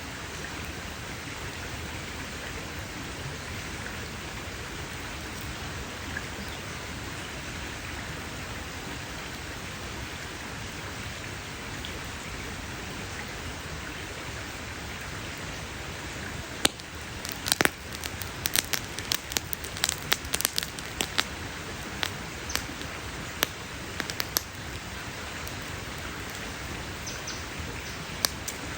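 Campfire burning with a steady hiss, breaking a little past halfway into a run of sharp crackles and pops from the burning wood that lasts several seconds.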